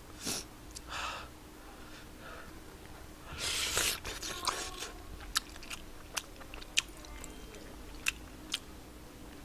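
A person chewing spicy tteokbokki (Korean rice cakes) close to the microphone: wet mouth clicks and smacks, with a louder breathy rush lasting about half a second around three and a half seconds in.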